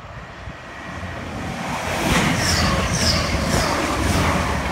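Express passenger train passing non-stop at high speed: the rush of wheels on rail builds and is loud from about two seconds in, with a regular wheel clatter about twice a second as the train sweeps by.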